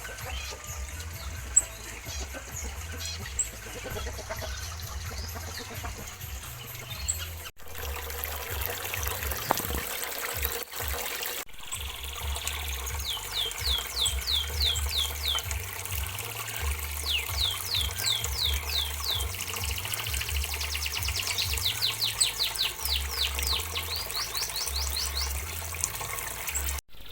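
Small aviary birds chirping, with rapid trilled runs of quick high notes from about halfway through, over a steady background hiss with a trickling, water-like quality.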